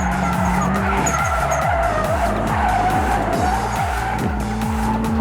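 Tyres squealing continuously as a Nissan S13 spins donuts, its four-cylinder engine held at steady high revs, heard from inside the cabin.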